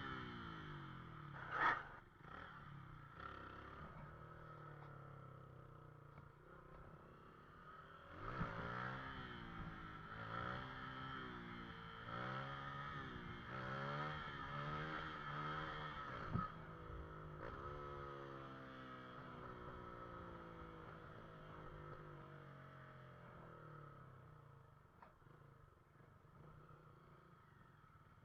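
Motorcycle engine revved up and down in a string of quick rises and falls through the middle, then running more evenly and fading. A sharp knock sounds near the start and another in the middle.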